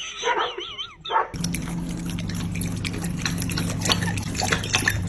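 A dog gives a few high, wavering yelping calls. About a second in, the sound changes abruptly to a steady low hum with rapid, irregular clicking and splashing of water.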